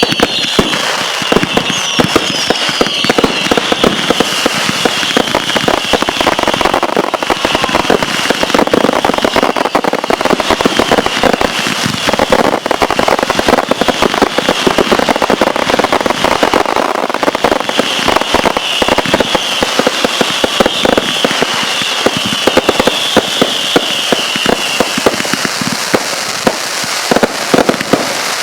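Consumer fireworks going off: a dense, rapid, continuous string of cracks and bangs. A high shrill whine with a few falling whistles sits over it and ends near the end.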